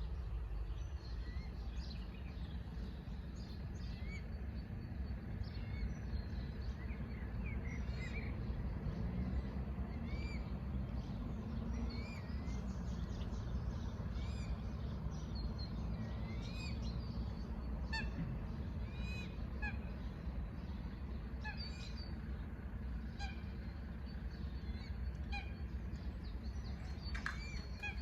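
Birds calling, many short curved chirps repeated throughout, over a steady low rumble.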